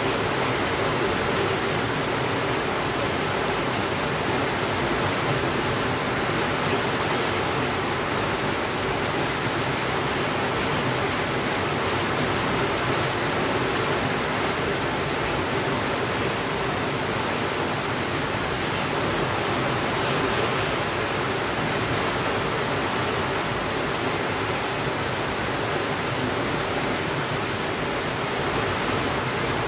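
Steady rainfall, an even hiss with no breaks or changes in level.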